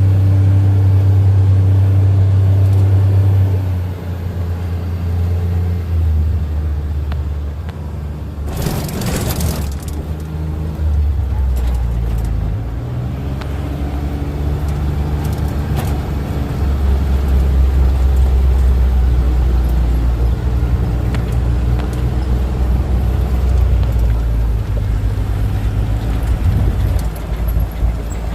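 Motor vehicle running under way, its low engine note holding steady and shifting pitch in steps several times, with a brief loud hiss about nine seconds in.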